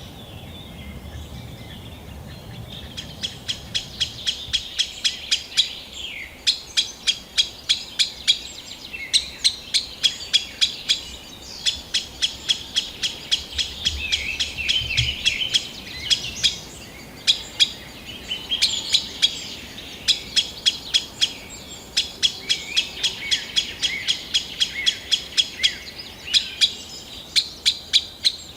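Green sandpiper calling: runs of sharp, evenly repeated notes, about four or five a second, each run lasting a few seconds with short breaks between, over fainter song of other birds.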